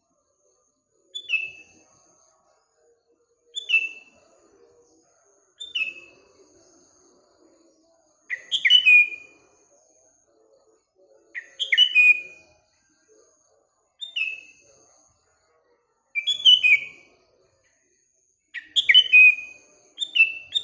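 Sooty-headed bulbul (kutilang) giving short whistled phrases that fall in pitch, repeated about every two to three seconds, with a faint thin high tone between them.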